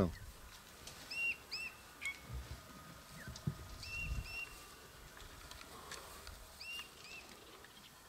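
A bird calling in pairs of short, clear, arched notes, the pair repeated three times about two and a half seconds apart, over faint low rustling and a few soft thumps.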